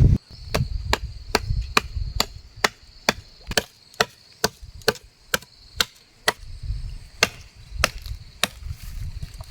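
A tool chopping into wood with a steady run of sharp, evenly spaced blows, a little over two a second.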